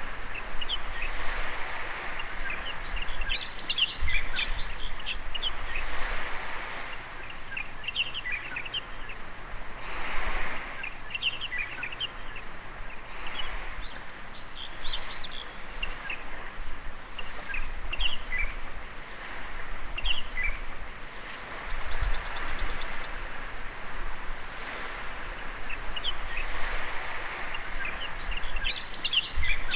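Small waves washing on a beach in gentle swells, with songbirds chirping over them, including a quick run of repeated notes partway through. There are a few dull low thumps.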